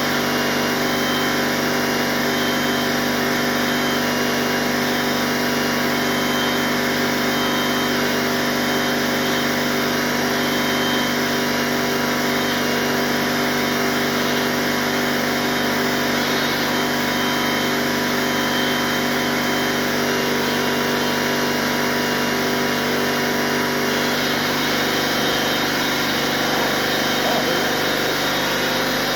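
A machine running steadily with an even hum and whine that stays unchanged throughout.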